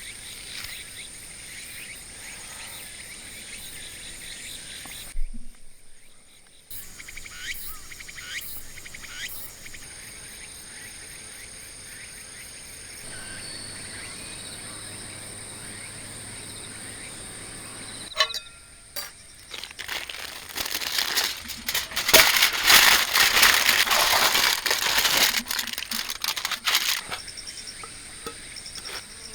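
Crinkling, rustling handling noise, densest and loudest in a stretch about two-thirds of the way through, over a steady high insect buzz.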